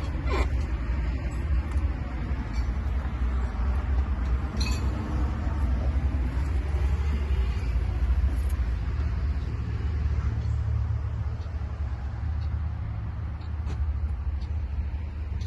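Scania G 420 truck's inline-six diesel engine idling steadily, with a few light clicks over the low rumble.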